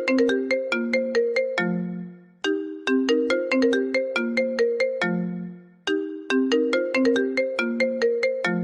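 iPhone ringtone playing: a short melody of quick, struck notes that loops about every three and a half seconds. Each loop starts on a low held note.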